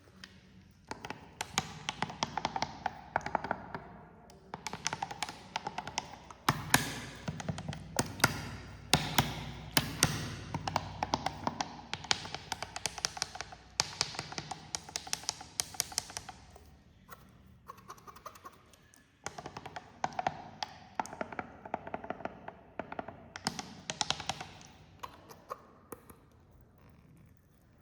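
Carbonated cola poured into a glass, the stream splashing under a dense crackle of popping bubbles. It comes in three pours with short pauses between them.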